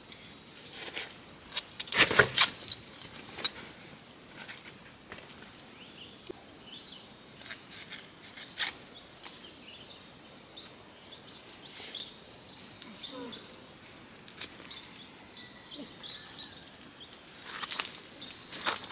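Insects buzzing steadily at a high pitch, with a few sharp clicks and knocks, the loudest about two seconds in.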